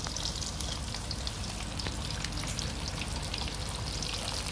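Breaded chicken strips frying in hot oil in a pan, sizzling steadily with many small crackling pops.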